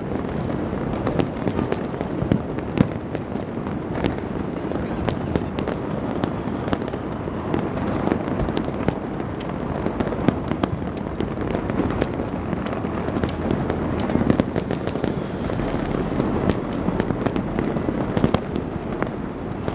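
Many fireworks and firecrackers going off at once: a dense, unbroken mix of low booms with sharp cracks and pops scattered throughout.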